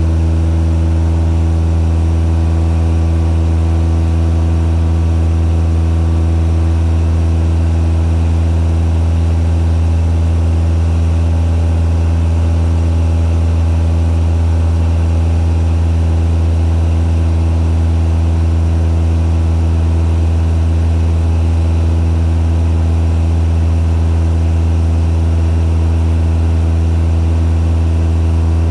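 Cessna 172's piston engine and propeller running steadily at a constant pitch, a loud even drone.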